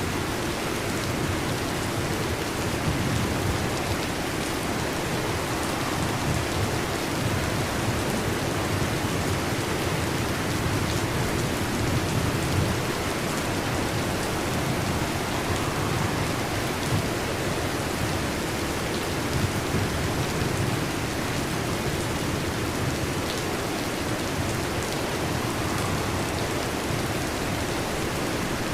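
Heavy rain falling steadily: an even hiss with a low rumble underneath and no separate thunderclaps.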